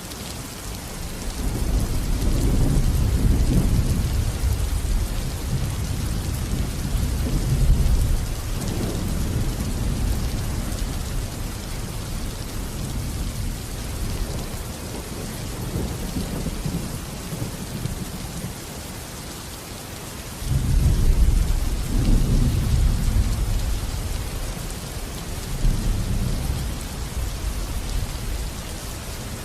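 Steady rain with two long rolls of thunder: the first swells about a second and a half in and rumbles on for several seconds, the second cracks in suddenly about two-thirds of the way through and rolls away.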